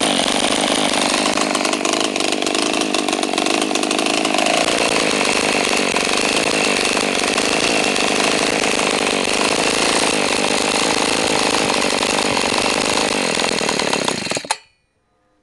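Small two-stroke engine of a 29cc GoPed-type gas scooter running at high speed. It drops to a lower, steady speed about four seconds in, then stops abruptly near the end.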